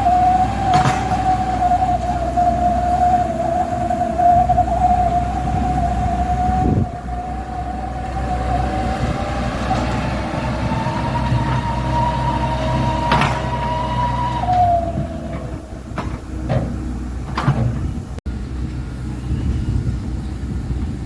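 Dump truck running with a low rumble under a steady high whine. The whine steps up in pitch about ten seconds in and stops about fifteen seconds in, followed by a few short knocks.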